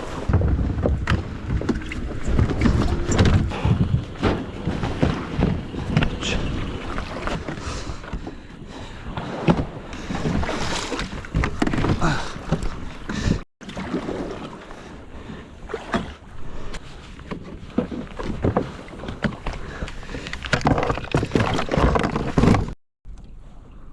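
Water splashing and sloshing around a kayak hull, with wind buffeting the microphone in uneven gusts; the sound drops out briefly twice.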